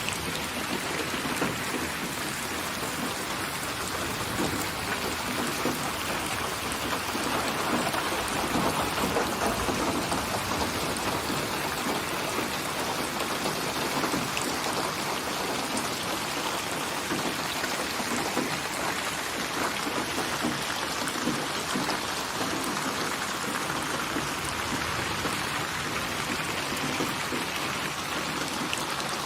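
Steady rain falling, a continuous even patter of raindrops on a surface.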